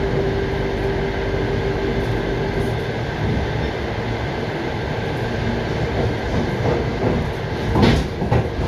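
Passenger train running, heard from inside the carriage: a steady rumble of wheels on the rails, with a steady hum over it that stops about three seconds in.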